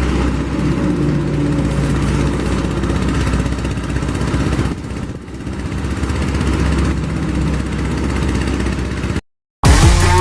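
Paddy-field tractor engine running steadily, dipping briefly about halfway through, then cutting off abruptly near the end; music starts right after.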